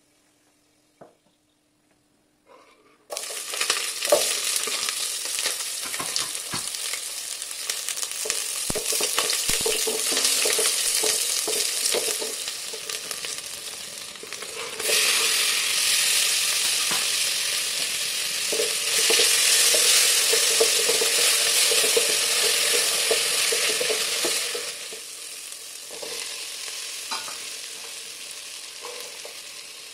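Chopped vegetables dropped into hot oil with whole spices in a pot, sizzling loudly as they fry, with a spatula stirring and clicking against the pot. The sizzle starts suddenly about three seconds in, jumps louder when chopped tomatoes are slid in about halfway, and eases near the end.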